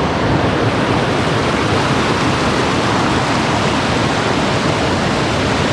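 Waterfall's water rushing in a steady, loud, even wash of noise.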